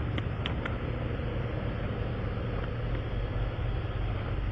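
A vehicle engine running steadily, a low hum, with a few faint clicks in the first second.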